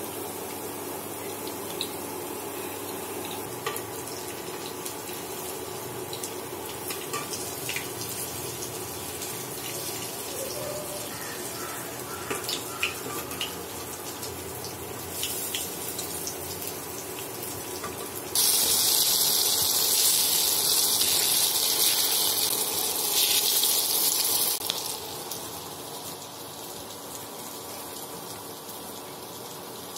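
Dal pakodi (lentil fritters) sizzling as they fry in hot oil in a kadai, with a few light clinks of a metal spoon against the pan. About two-thirds of the way in, the sizzle turns much louder and hissier for some six seconds, then drops back.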